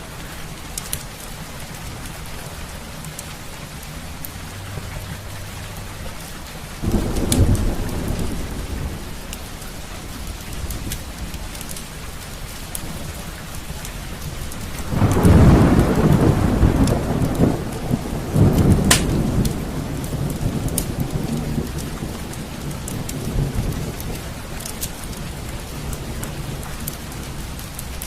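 Steady rain with rolling thunder: one rumble about 7 s in and a louder, longer one about 15 s in that fades over several seconds. A few sharp crackles are scattered through it.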